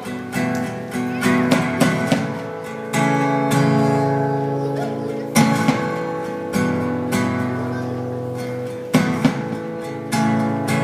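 Acoustic guitar strumming slow chords in an instrumental break of a live song, each chord struck and left to ring out before the next.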